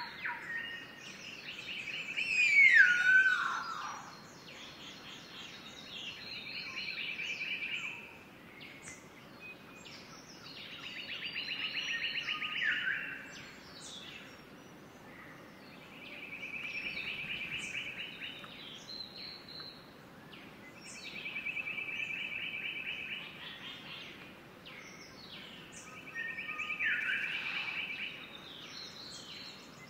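Bird calls: a pulsing trill on one pitch, each about two seconds long and swelling in loudness, repeats every four to five seconds. A few trills end in a falling note, the loudest about three seconds in, with short chirps scattered between.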